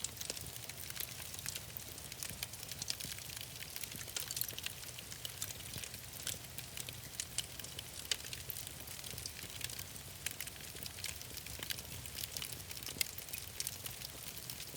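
Wood fire crackling in a fireplace: a constant run of small, irregular pops and snaps over a low steady rumble.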